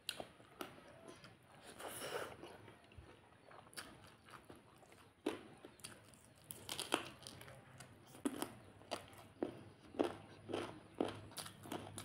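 Close-up eating sounds of a person chewing a handful of rice and chicken curry eaten by hand: wet smacks and sharp mouth clicks, coming faster in the second half.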